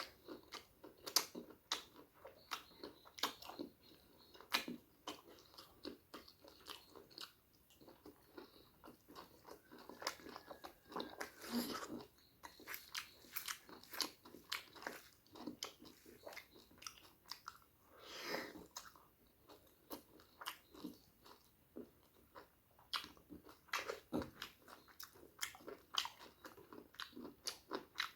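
Close-miked eating of pork curry and rice: wet chewing and lip smacks, with irregular crunches and clicks of biting.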